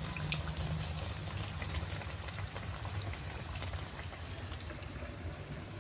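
Food sizzling in hot oil in a pan, with many scattered small pops over a low steady hum.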